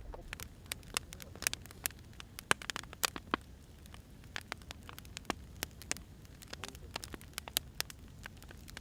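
Burning firewood crackling: irregular sharp pops and snaps, some louder than others, over a low steady rumble of the fire.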